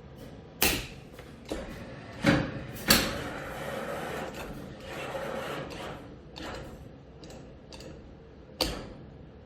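Claw machine's crane running through its grab cycle on its own, set off before the button was pressed. Several sharp clunks and knocks come in the first three seconds, then a steady motor whirr, and one more clunk near the end.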